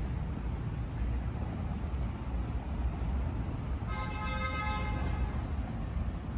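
Street traffic rumble, with a vehicle horn sounding once for about a second and a half, about four seconds in.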